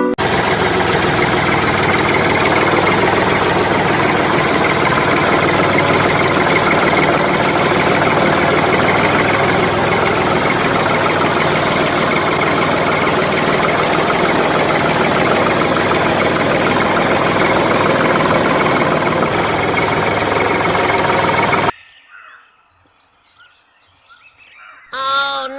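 Mini diesel engine running steadily at a constant speed, then cut off abruptly about 22 seconds in. Near the end there is a brief pitched sound.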